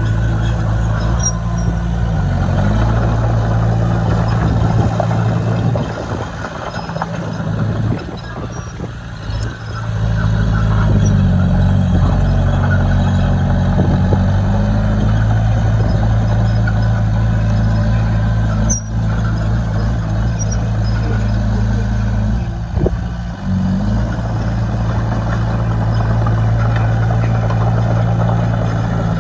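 Bulldozer's diesel engine running hard, a steady low hum whose pitch sags and recovers several times as the load changes. It is quieter for a few seconds about six seconds in.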